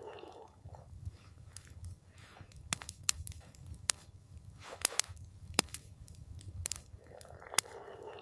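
Campfire crackling: irregular sharp pops and snaps, a few of them loud, over a steady low rumble. A soft rushing sound swells near the end.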